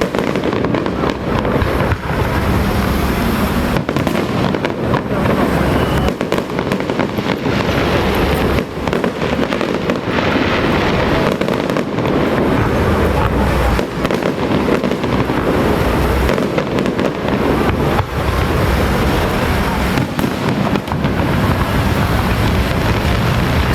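Firecrackers going off in a dense, continuous crackle of rapid bangs, from an electronic firecracker show, with a low rumble underneath.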